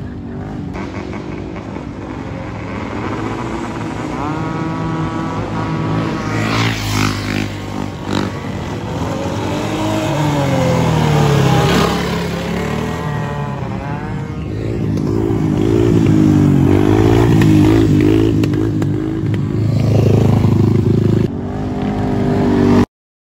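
Several dirt bikes and four-wheelers revving and passing, engine pitch rising and falling with the throttle. The sound cuts off suddenly at the very end.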